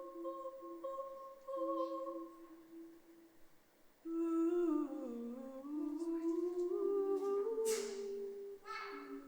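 Voices humming in chorus: a single held note at first, then from about four seconds in several voices join and slide down and back up in pitch against one another. A short breathy hiss cuts in near the end.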